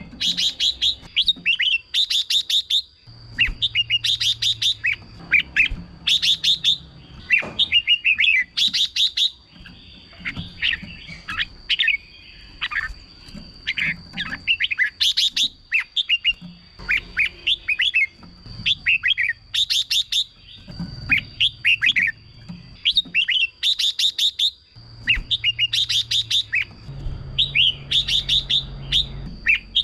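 Red-whiskered bulbul singing short, bright chirping phrases, one after another every second or two. A thin, steady high-pitched tone runs underneath.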